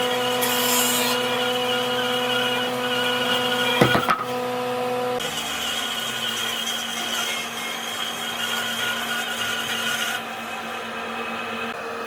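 An electric power tool running steadily on wood, with a couple of knocks about four seconds in; its whine changes and drops a little about five seconds in.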